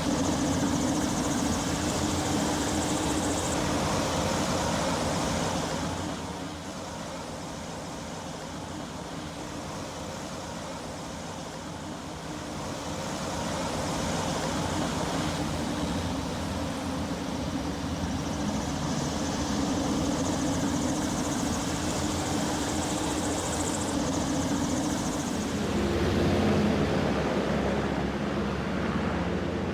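Engine running with a steady drone; it drops lower about six seconds in and builds back up after about fourteen seconds.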